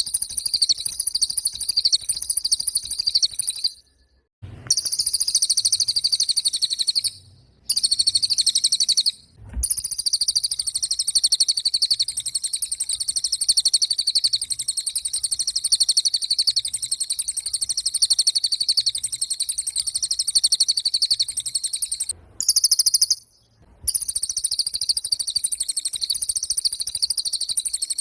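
Cililin bird singing in full voice: a continuous, very high, rapid buzzing trill, broken by brief pauses about 4, 7, 9 and 23 seconds in.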